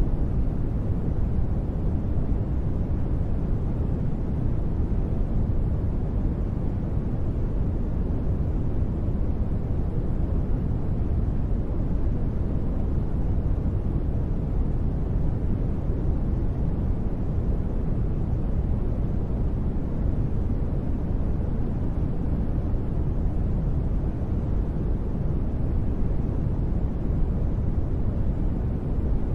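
Continuous sleep noise (white noise): a steady, even hiss with most of its weight in the low end, unchanging throughout.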